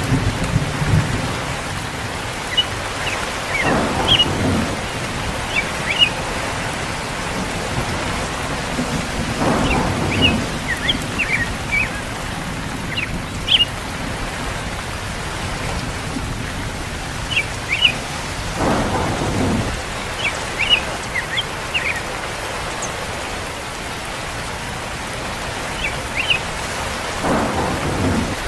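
Steady rain falling, with four short rumbles of thunder spread through it.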